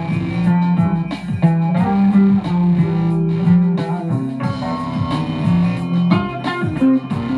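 Guitar music: plucked electric guitar notes over a bass guitar line.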